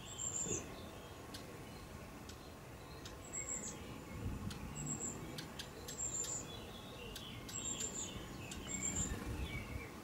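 Small garden birds giving short, thin, very high-pitched calls, about six in a row spread over several seconds, with faint sharp clicks between them.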